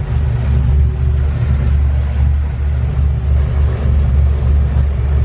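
Luhrs 400 sportfishing boat's engine running steadily at trolling speed: a deep, slightly pulsing rumble with a steady hum, and a hiss over it.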